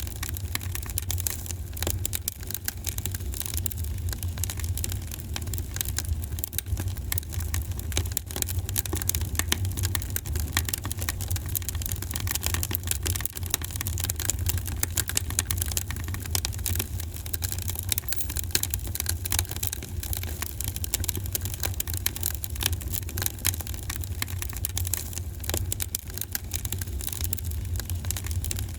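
Fireplace fire crackling: dense, irregular small pops and snaps over a steady low rumble.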